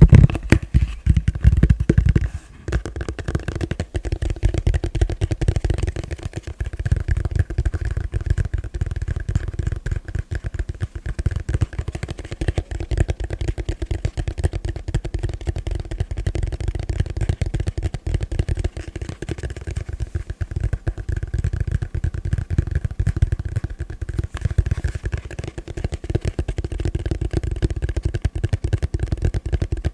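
Fast, gentle tapping on a plastic bowl: a dense, continuous run of light taps. It is louder for the first couple of seconds, breaks off briefly, then goes on evenly.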